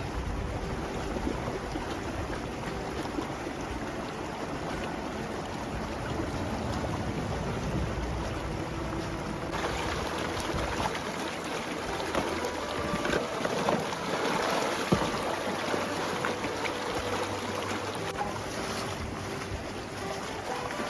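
Mountain stream water rushing steadily, with wind buffeting the microphone in the first half; about ten seconds in the wind rumble drops away and irregular splashing clatters come through over the water.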